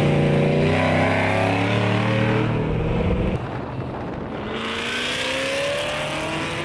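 Ford Mustang's engine accelerating hard, its pitch climbing; the low end drops away about three and a half seconds in, then the pitch climbs again.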